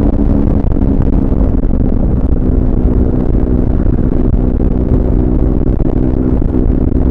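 Triumph Speed 400's single-cylinder engine running at steady revs while the motorcycle is ridden, loud, with the engine note holding nearly level over a heavy low rumble.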